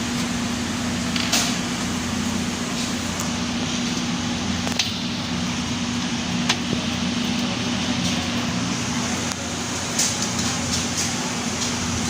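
Steady hum with a constant low tone, broken by a few sharp clicks and taps of computer parts being handled.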